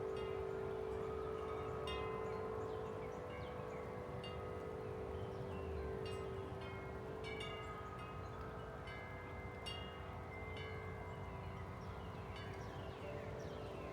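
Several large tubular wind chimes rung by strong wind: repeated irregular strikes at different pitches over a deep, long-sustaining low tone.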